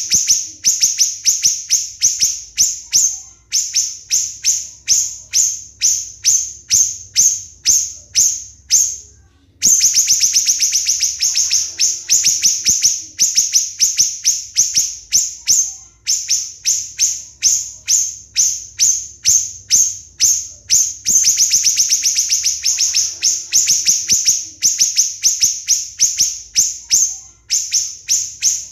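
Siri-siri bird calling in long runs of short, sharp, high-pitched notes, about three or four a second, with brief pauses between runs. This is the tight, rapid 'tembakan' call that birdkeepers use to tutor other songbirds.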